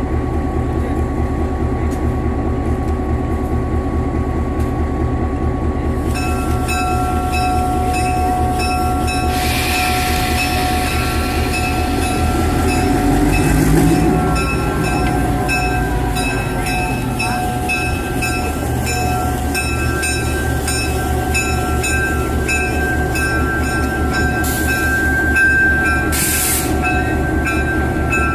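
GP7 diesel-electric locomotive's engine running steadily as the engine crosses over onto track two. There is a short hiss about ten seconds in and another near the end.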